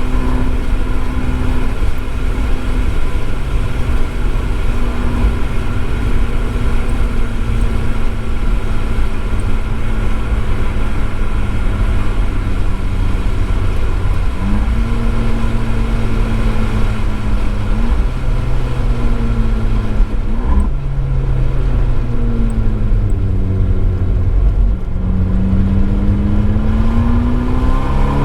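Abarth 595 Esseesse's turbocharged 1.4-litre four-cylinder running through an Akrapovič exhaust under hard track driving. It holds a steady note for about the first half, then falls and rises in pitch several times and climbs steadily near the end, over constant road and rain noise.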